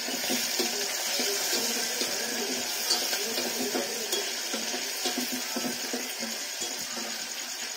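Chopped tomatoes and onions frying in oil in a steel pot, sizzling steadily as they are stirred with a spoon.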